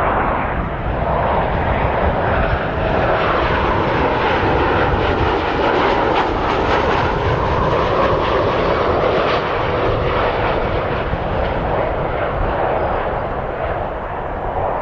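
Jet airliner engines running loud and steady as the aircraft passes, with a faint whine that sinks slightly in pitch partway through and eases a little near the end.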